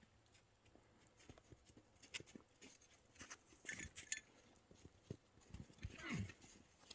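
Horses moving about: scattered thuds and clicks of hooves. About six seconds in there is a short animal call that falls steeply in pitch.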